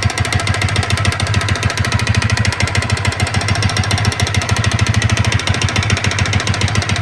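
Yamaha Vixion's single-cylinder four-stroke engine idling steadily with an even, rapid beat, a noise its owner finds worrying and abnormal.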